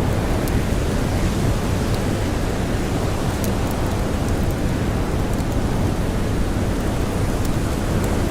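Steady, loud rush of storm wind and blowing snow, heaviest in the low end, with the faint sharp crackles of a campfire popping now and then.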